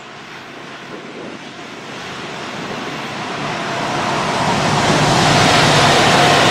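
BNSF train approaching, a rushing rumble that grows steadily louder and levels off near the end.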